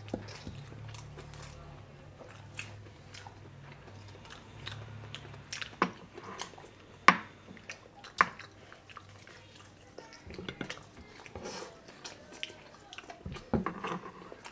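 Close-up eating sounds of a man biting and chewing spicy rabbit adobo meat off the bone: wet mouth noises and chewing, with three sharp smacks about six, seven and eight seconds in.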